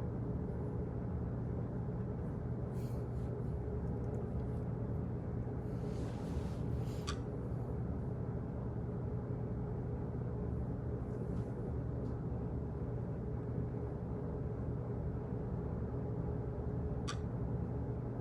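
Office background noise: a steady low hum with a few faint scattered clicks and rustles, two sharper clicks about seven and seventeen seconds in.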